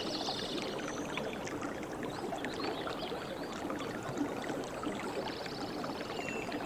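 Water flowing and splashing in a stream: a steady, busy babble. High chirping trills come in briefly near the start and again near the end.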